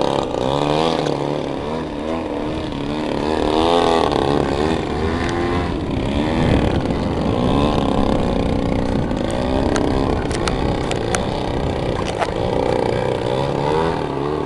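Engines of large radio-controlled aerobatic model planes running on the ground, at least two at once, their pitch wavering up and down as the throttles are worked.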